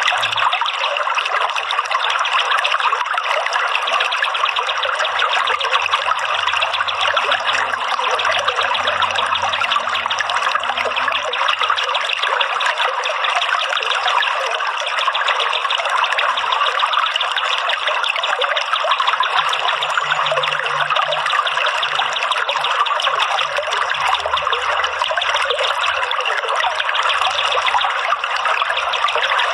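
Water trickling and running steadily, as in a small stream or fountain, with no break.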